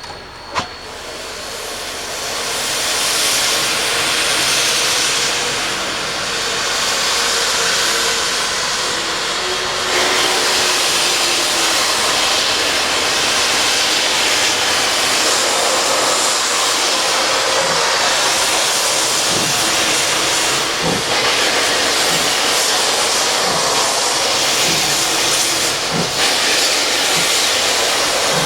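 Steam hissing from a K-37 steam locomotive: a loud, steady hiss that builds over the first few seconds and grows louder about ten seconds in. There is a sharp click just after the start.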